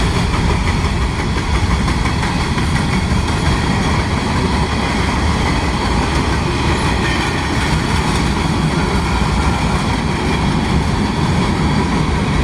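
Freight cars of a long freight train rolling past on the track: a steady, loud rumble of steel wheels on the rails.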